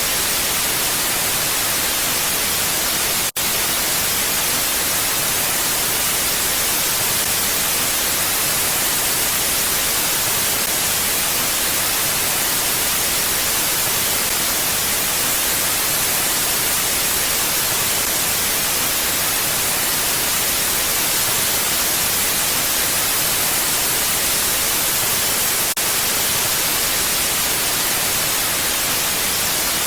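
Steady mountain wind, an even, unchanging hiss with no gusts. It cuts out for an instant about three seconds in.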